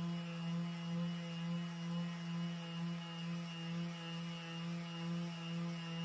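Electric sander motor running steadily while sanding fiberglass gel coat, a constant hum whose loudness swells and dips about twice a second.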